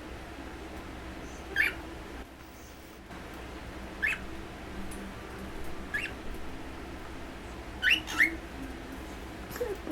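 Pet cockatiels giving short, high chirps about every two seconds, five in all, two in quick succession near the end.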